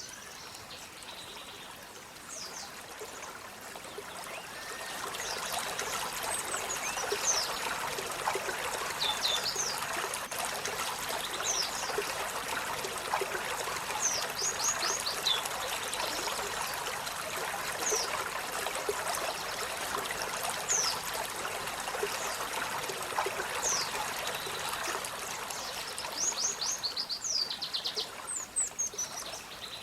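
Olive-backed sunbird calling in short, high, thin falling chirps, often in quick runs of three or four, over a steady rush of running water that grows louder a few seconds in.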